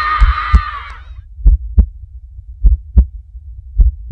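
Heartbeat: slow double thumps (lub-dub), about one beat a second, four beats in all. A babble of voices fades out during the first second.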